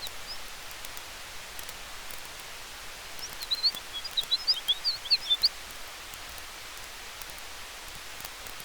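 Campfire crackling softly over a steady hiss of wind through trees. About three seconds in, a small bird gives a quick burst of high chirps for about two seconds, the loudest sound.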